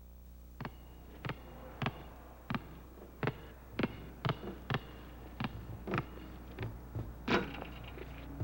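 A basketball being dribbled, bouncing on a hard floor about once every half second or so, a dozen bounces in all, starting about half a second in.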